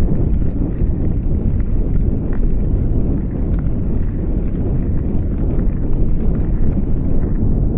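Heavy wind buffeting the microphone of a head-mounted camera on a moving bicycle, a steady low rumble.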